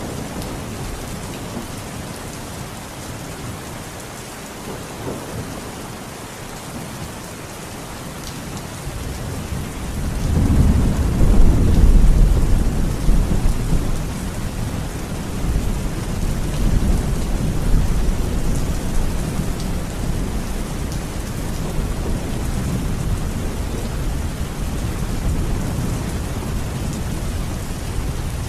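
Rain falling steadily, with a long roll of thunder that builds about ten seconds in, is loudest for a couple of seconds, then rumbles on more softly.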